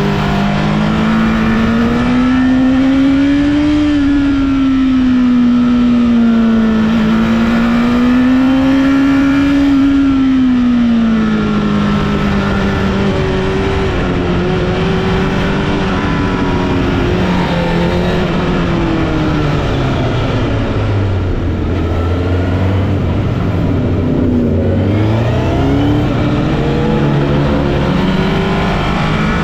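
Engine of a vehicle being driven on a winding mountain road, its revs rising and falling with the throttle. The revs swell and ease several times in the first third, settle lower, dip to near idle about two-thirds of the way in, then climb again near the end.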